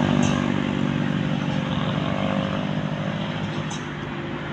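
A road vehicle's engine running steadily as it passes, growing gradually fainter as it moves away.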